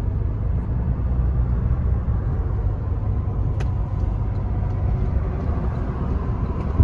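Road noise from a moving car: a steady low rumble of tyres and engine, with a single sharp click about three and a half seconds in.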